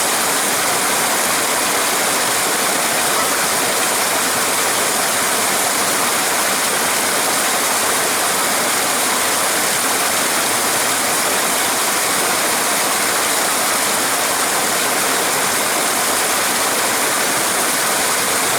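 Small waterfall pouring steadily into a pool, a constant rushing water noise.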